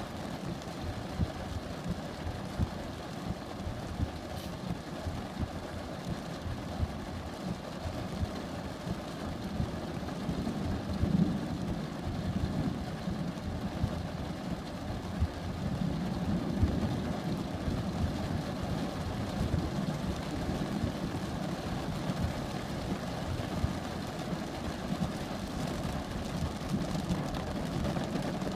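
Low, steady rumble of a thunderstorm with a faint rain hiss, growing a little louder about ten seconds in.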